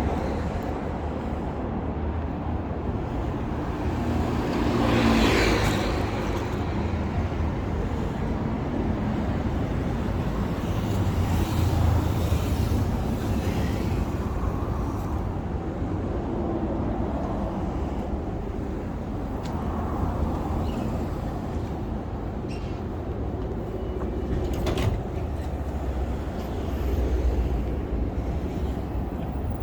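Road traffic on a city street: a steady rumble of passing vehicles, with one louder vehicle going past about five seconds in and a short sharp click a little before the end.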